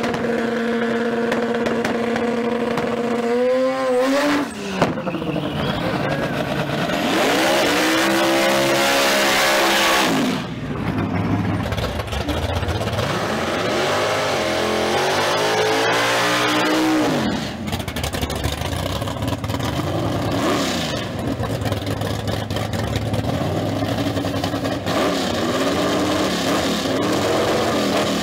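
Drag-race car engines at the strip. One is held at steady high revs, then its pitch climbs as it launches. After that come several loud runs of revving and hard acceleration, the pitch sweeping up and down.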